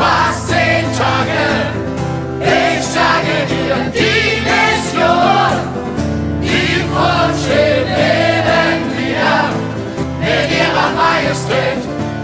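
A group of children singing a German campfire song together over instrumental accompaniment, its chords changing about every four seconds.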